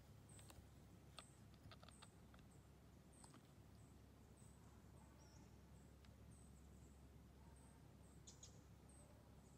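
Quiet forest ambience: a small bird's thin, high-pitched chirp repeated over and over, a little faster than once a second, with a few faint clicks near the start and again near the end over a low background rumble.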